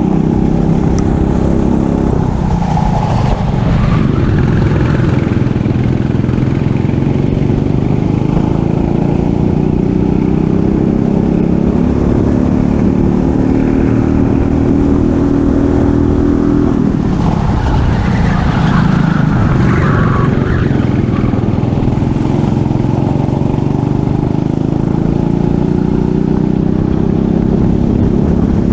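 Racing kart engine running at full race pace, its revs climbing steadily along the straights and dropping sharply twice, about two seconds and seventeen seconds in, when the kart slows for corners.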